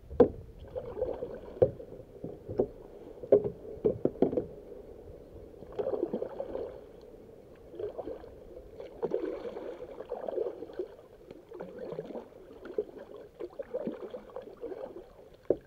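Kayak being paddled: repeated swishing paddle strokes through the water, with a few sharp knocks in the first four seconds.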